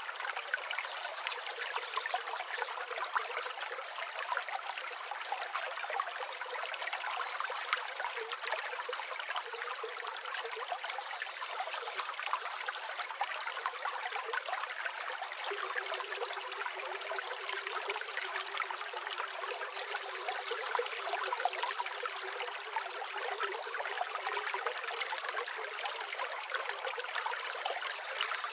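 River water flowing with a steady babbling rush, thin and without any low rumble.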